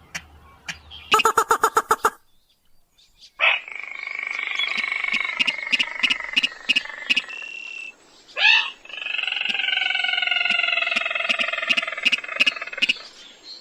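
Recorded rail calls played as a hunting lure: a rapid run of repeated calls, then two long drawn-out calls of several seconds each, with regular clicking running through them.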